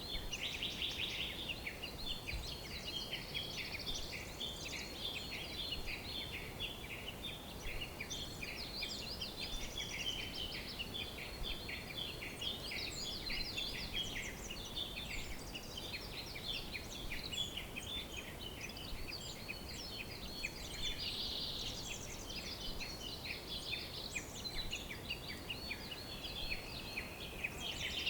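A chorus of many birds chirping and singing at once, with short, rapid high notes overlapping without a break, over a faint steady hiss.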